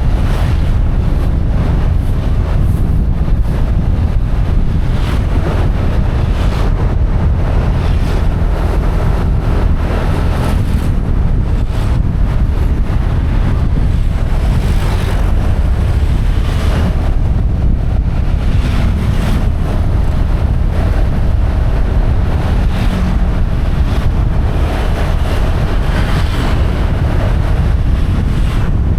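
Wind buffeting the microphone on a moving motorbike, a steady low rumble with gusty rises, over the bike's running and road noise.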